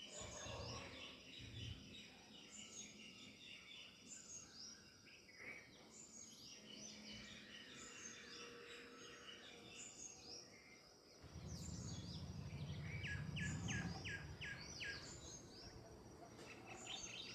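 Several small songbirds chirping and singing in the background: a mix of short high whistles and chirps, with a quick run of about six falling notes past the middle. A low rumble comes in about two-thirds of the way through and lasts a few seconds.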